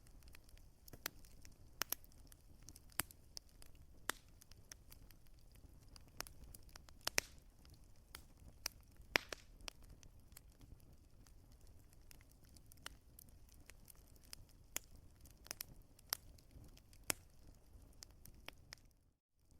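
Wood fire crackling in a fireplace, with irregular sharp pops and snaps over a faint low rumble of burning. The sound cuts out to silence for a moment near the end.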